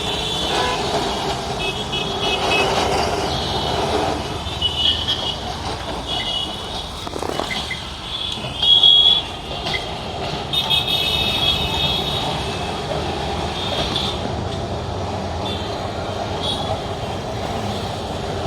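Kolkata tram running through street traffic: a steady rumble with repeated short high-pitched squeals or toots, and a brief louder burst about nine seconds in.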